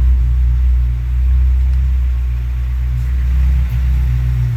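Honda G23 engine idling cold, running steadily, with the piston-slap knock that the owner says is there while the engine and oil are still cold.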